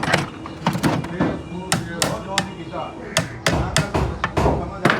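Hammer blows on metal, about a dozen sharp strikes at an uneven pace, some ringing briefly.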